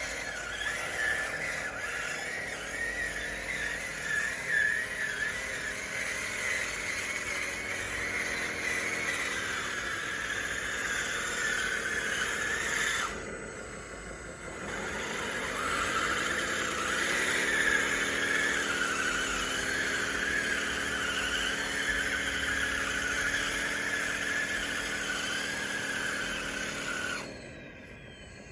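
Radio-controlled model bulldozer running: a motor whine that glides up and down as it speeds up and slows, over a high, steady whine. It stops briefly about halfway through and again near the end.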